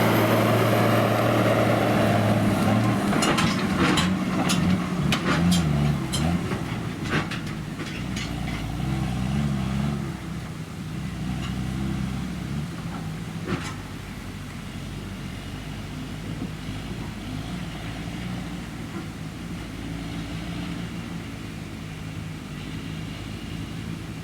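Claas Lexion 580 Terra-Trac combine harvester running while harvesting barley, with a steady engine hum and several sharp clicks and knocks in the first few seconds. The sound grows quieter over the first ten seconds and settles into a steady low rumble.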